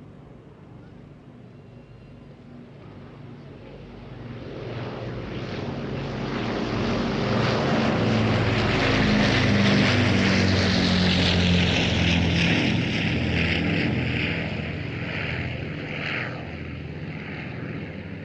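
Piston engines of the Battle of Britain Memorial Flight's Avro Lancaster and Supermarine Spitfire on a flypast. The engine drone swells as they approach, is loudest about midway, then fades as they move off, its note dropping as they pass.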